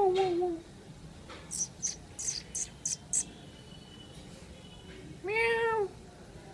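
Cat meowing: a call trailing off at the start and a second call rising and falling about five seconds in. In between comes a quick run of about six short, sharp, hissy clicks.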